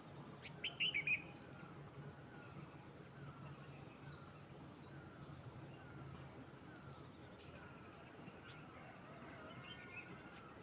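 Wild birds chirping and calling, with a quick run of loud chirps about half a second in, scattered high chirps later, and faint descending calls repeating under a steady low background.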